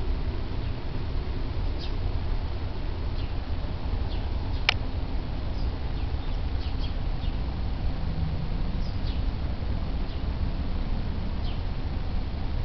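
Small birds chirping now and then, short high chirps, one sharper than the rest about halfway through, over a steady low rumble.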